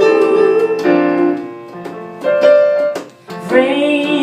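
Live pop ballad on piano or electric keyboard, chords ringing between sung lines. The music dips briefly about three seconds in, then a held, wavering sung note comes in near the end.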